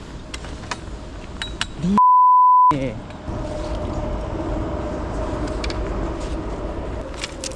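A censor bleep: a steady pure beep lasting under a second, about two seconds in, with all other sound cut out beneath it, blanking out a swear word. Around it, low rumbling noise and faint muttering.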